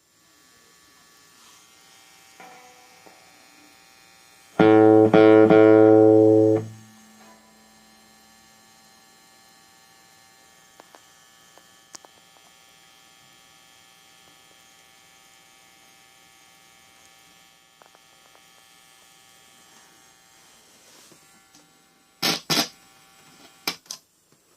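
ZT Lunchbox Jr amplifier putting out a steady faint mains buzz, the ground-noise fault the owner is showing. About four and a half seconds in, a loud buzz with a heavy low hum sounds for about two seconds, then drops back to the faint buzz. Near the end come a few loud crackles.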